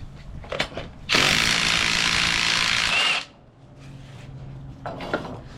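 A power tool runs in one burst of about two seconds, a steady hiss over a buzzing rattle, and cuts off abruptly. Short metallic clicks and knocks of hand tools come before and after it.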